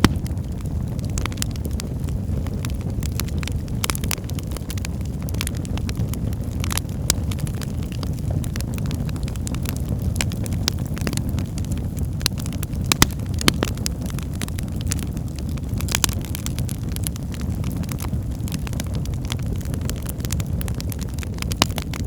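Wood fire burning in a fireplace: a steady low rumble of flames with sharp, irregular crackles and pops of the burning logs.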